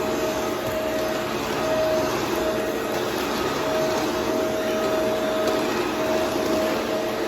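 Vacuum cleaner with a brushroll running steadily, with a whine that keeps cutting in and out.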